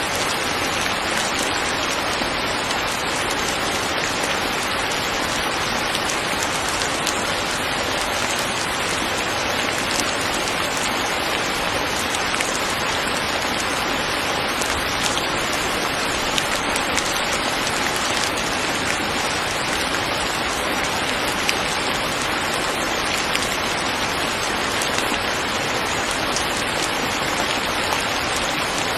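Steady rain falling, an even unbroken hiss with a few faint drop ticks.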